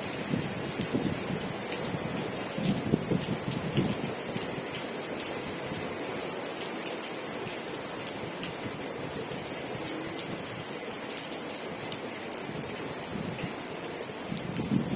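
Steady rain falling, an even hiss, with a few low rumbling surges near the start and again near the end.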